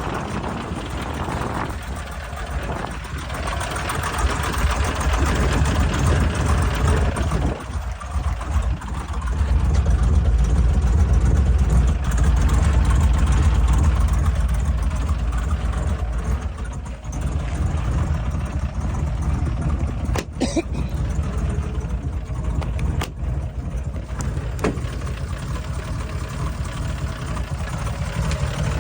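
Turbocharged LS V8 engine running rough and uneven, louder around four seconds in and again from about ten to fifteen seconds, with a few sharp clicks in the second half. The owner takes the sound as unhealthy: running far too rich, not firing on every cylinder, with exhaust blowing past a failing wastegate. To him it is not quite rod knock.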